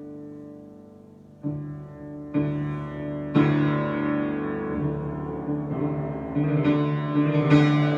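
Solo piano improvisation. A held chord dies away, then three chords are struck about a second apart, building into fuller, busier playing in the second half.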